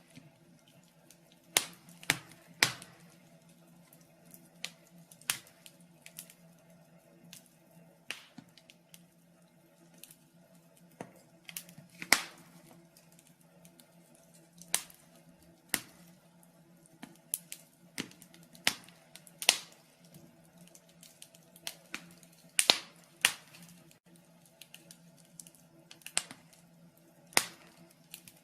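Wood fire in a fireplace crackling, with sharp pops and snaps at irregular intervals and short quiet gaps between them, over a faint steady hum.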